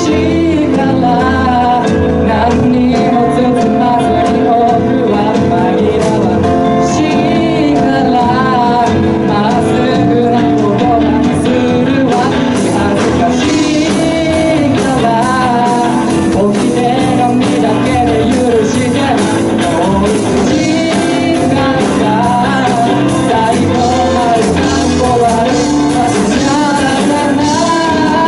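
A live pop song played by a band, with a singer over keyboard accompaniment.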